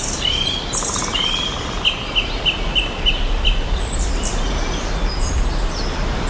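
Songbirds chirping, with a run of quick repeated notes about two seconds in, over a steady outdoor hiss of forest ambience.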